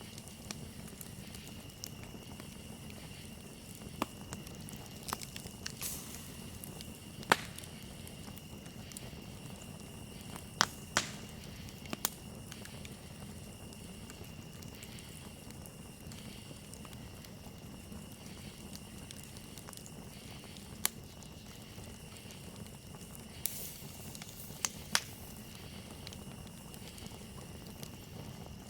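Campfire crackling, with about a dozen sharp pops at irregular intervals over a low steady hiss of burning wood. A steady high chirring of crickets runs underneath.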